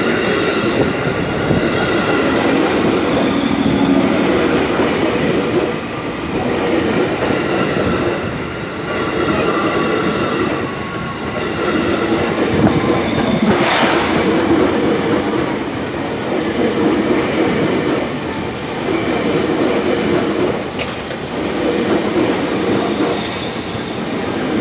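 JR 205 series electric commuter train running past at close range, its wheels clattering over the rails with a rush that swells and eases every couple of seconds as the cars go by, and a light squeal from the wheels above it.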